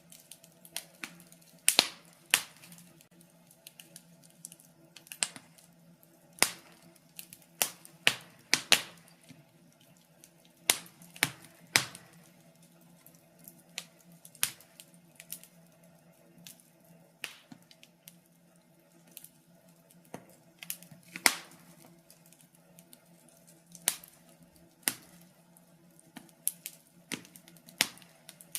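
Wood fire crackling: irregular sharp pops and snaps, a loud one every one to three seconds with smaller ticks between, over a faint steady low hum.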